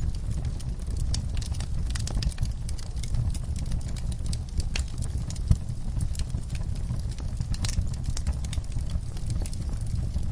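Wood fire in a fireplace crackling, with irregular sharp pops over a low steady rumble of flames; one pop about five seconds in is louder than the rest.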